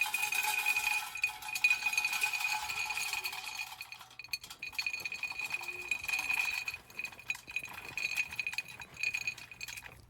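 Wood pellets poured into a metal fire pit: a dense rattle of pellets striking metal while the pit rings at a steady high pitch. The stream turns patchier about four seconds in and stops near the end.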